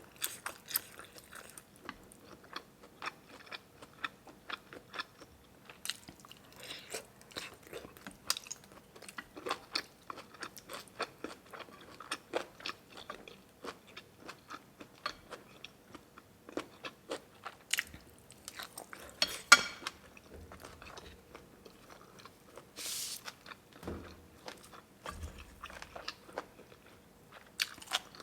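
A person chewing and biting food close to the microphone, with irregular crunches and wet mouth clicks. There is a louder cluster of crunches about two-thirds of the way through.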